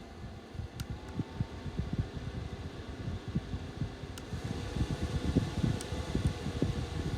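Handheld USB mini fan running, its airflow buffeting the microphone with an uneven low rumble. The motor's faint whine steps up in pitch about a second in and again around four seconds in, each time just after a small click, and the buffeting grows louder after the second step.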